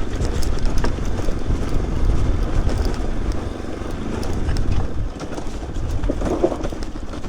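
Motorcycle engine running as the bike is ridden slowly along a rough track, a steady low rumble.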